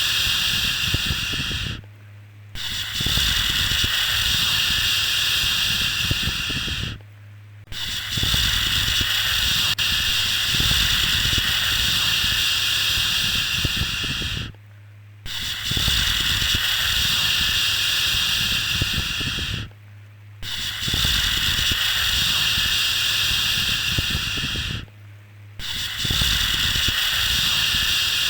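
Long, steady 'shhh' shushing sound, repeated with a brief pause every five to seven seconds, five times in all.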